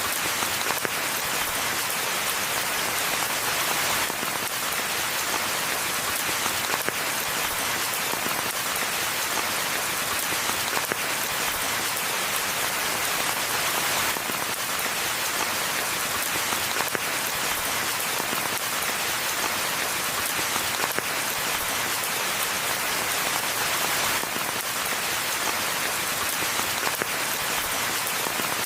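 Steady rainfall in a forest, an even hiss of many drops with no let-up.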